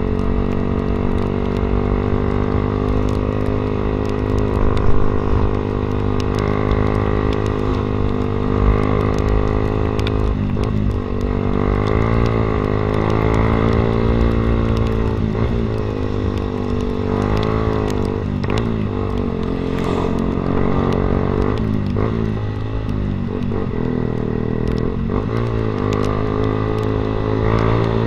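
Yamaha Vixion's single-cylinder engine running through an SC Project aftermarket exhaust while riding. The engine note holds steady at first, then drops and climbs again several times in the second half as the throttle is closed and reopened and gears change.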